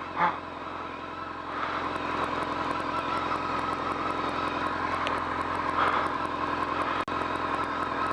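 BMW K1200R's inline-four engine running steadily under way, with road and wind noise; it gets a little louder about a second and a half in.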